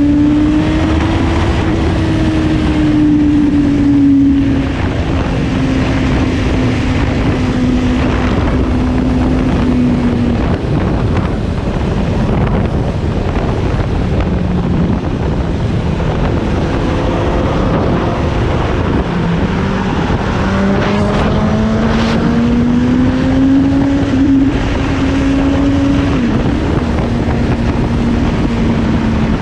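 Suzuki GSX-S750's inline-four engine under way at road speed, its pitch climbing as it accelerates and dropping back at gear changes, with wind rushing over the microphone.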